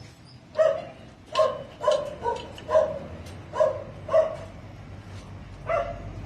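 A dog barking repeatedly: about eight short barks at an uneven pace, with a pause of over a second before the last one.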